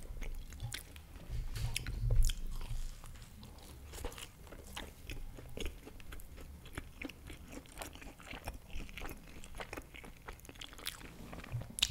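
Close-miked chewing of a baked empanada: a run of wet mouth clicks and soft crunches, heaviest about two seconds in.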